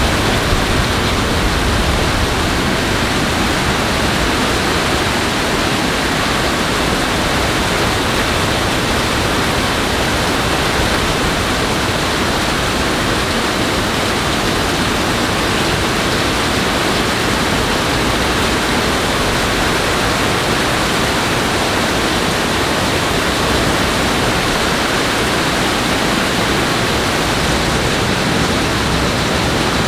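Steady, even rush of water noise with no break and no thunderclap.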